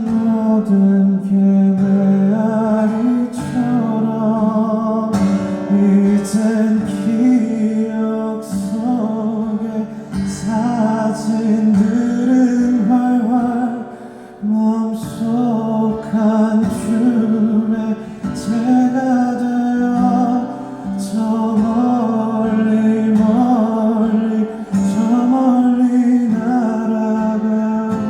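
Live music: a male singer singing a slow song over acoustic guitar accompaniment.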